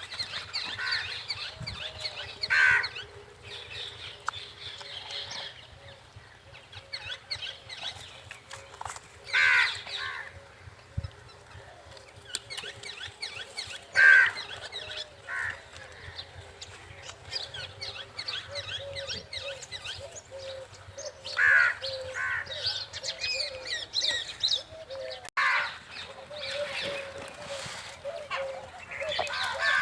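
A crowd of birds chirping and calling together nonstop, with a few louder, harsher calls standing out every several seconds.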